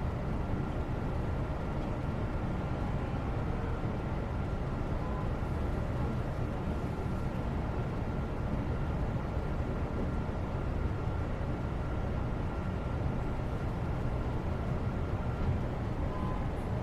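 Steady background noise with a low rumble, continuous and even, with a faint high steady tone that stops near the end.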